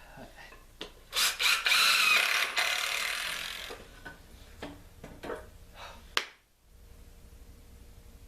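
A power tool, likely a drill, runs for about two and a half seconds while working wood, then a few knocks and a sharp click follow.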